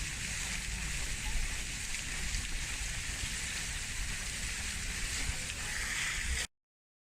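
A steady, even hiss with a low rumble beneath it, like rain or running water in a nature soundtrack. It cuts off abruptly into silence about six and a half seconds in.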